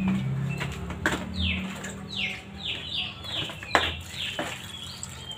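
A small bird singing a quick run of about seven falling whistled notes, with short level whistles between them. Water splashes as it is poured from a plastic dipper over leafy greens in a bowl, with a couple of sharp knocks.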